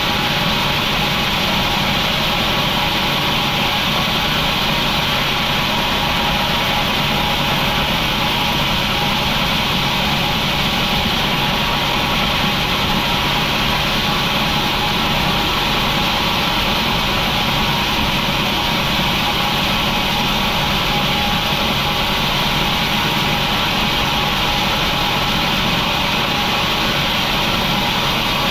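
Industrial machinery running steadily with an even drone and hum that does not change.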